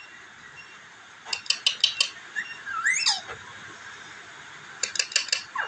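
Pet parrot vocalising: two quick runs of sharp clicking chirps, with a swooping whistle between them that slides up and then falls.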